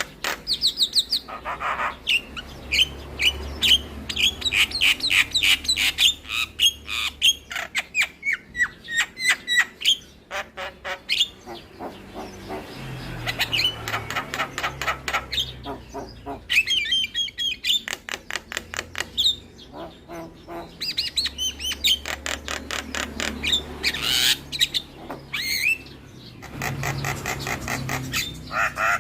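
Javan myna (jalak kebo) singing a long, varied song: rapid dry clicking chatter mixed with short whistled notes and squawks, broken by a couple of brief pauses.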